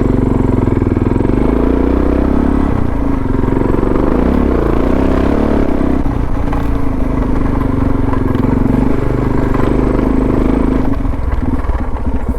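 Suzuki DR650's single-cylinder four-stroke engine running steadily, its pitch rising and falling a few seconds in. Near the end it drops to a slow, loping idle.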